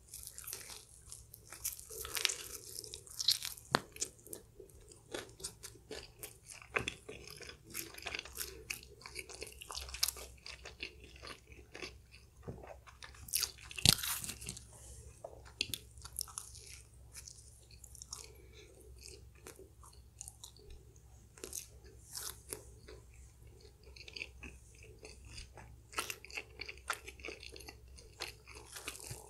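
Close-miked eating: a person biting and chewing mouthfuls of chili crab pizza with crab and prawn topping, in irregular soft crunches and clicks, with one louder crackle about halfway through.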